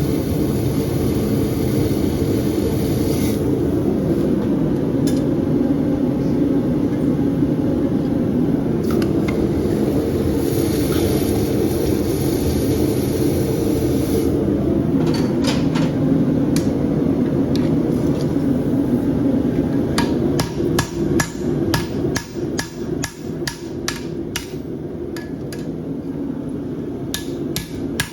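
Hand hammer striking a hot steel horseshoe blank on an anvil, bumping up the toe to thicken it: a few separate blows at first, then a quick run of ringing strikes from about two-thirds of the way in, over a steady roar.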